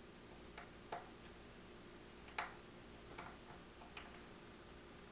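Faint, irregular light clicks and ticks of a small Phillips screwdriver working tiny screws out of an iPod's internal frame, about five clicks with the loudest about two and a half seconds in, over a steady low hum.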